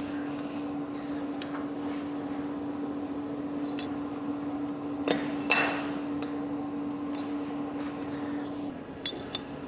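Light metallic taps and clinks of steel parts being handled, the loudest a ringing clink about five and a half seconds in, over a steady electrical hum that drops out near the end.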